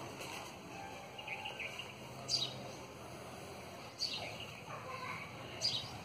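A bird calling: a short, sharp, high chirp repeated about every one and a half seconds, three times, over steady background noise.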